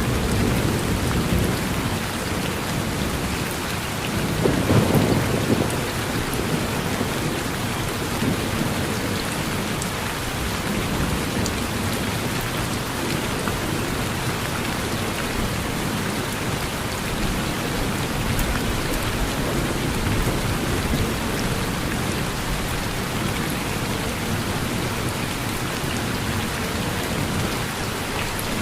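Steady rain falling, with low rumbles of thunder: one fading in the first second and another swelling about four to six seconds in.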